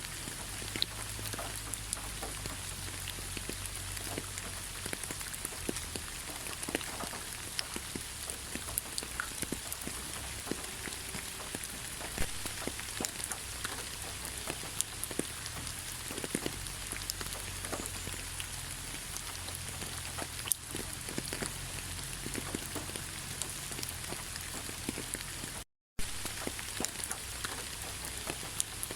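Steady rain falling, a constant hiss with many distinct drops striking close by. The sound cuts out completely for a split second near the end.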